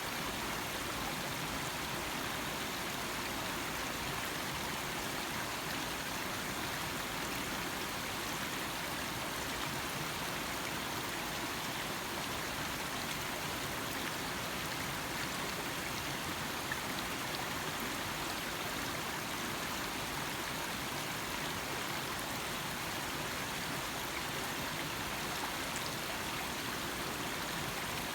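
Small stream flowing and babbling over stones, a steady rush of water.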